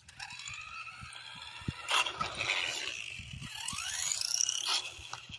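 Traxxas Stampede RC truck's electric motor and gear drivetrain whining, the pitch rising and falling as it speeds up and slows, with scraping and two sharp knocks, one about 2 seconds in and one near the end.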